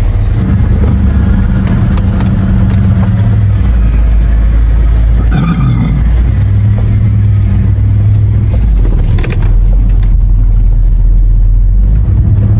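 Four-wheel-drive vehicle driving slowly over rough ground: a steady low engine rumble, with a couple of brief knocks or rattles about five and nine seconds in.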